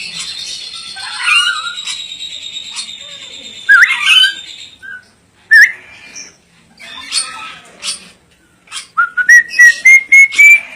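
Ornate lorikeet whistling and chirping. A long steady high whistle runs through the first few seconds with short squeaky glides over it, followed by separate chirps. Near the end comes a quick run of loud notes climbing in pitch.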